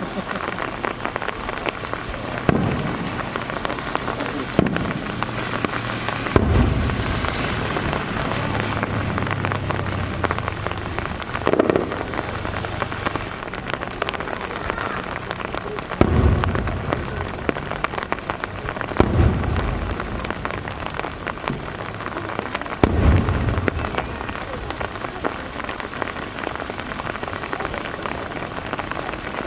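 Steady rain pattering, with dull booms from aerial fireworks bursting every few seconds, about seven in all.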